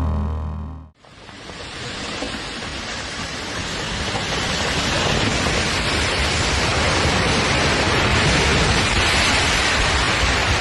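Background music stops about a second in, then a steady rushing noise fades in and builds to a constant loud level.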